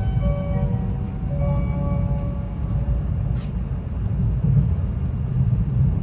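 Inside a moving Shinkansen car: the onboard announcement chime plays a short melody over the steady low rumble of the train running, the chime ending about two and a half seconds in.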